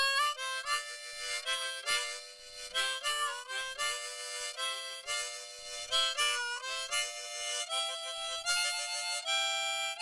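Harmonica playing a quick tune, several notes sounding together in chords and changing every fraction of a second.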